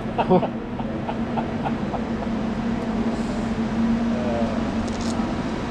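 A steady engine hum at a constant pitch, with a couple of brief voice fragments over it.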